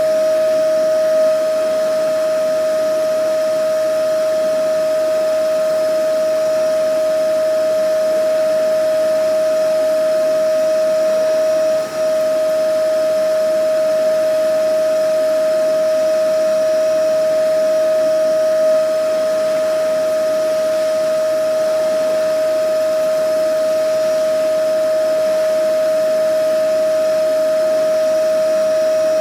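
Vacuum cleaner running continuously: a steady motor whine over the rush of air, with one brief dip in level about twelve seconds in.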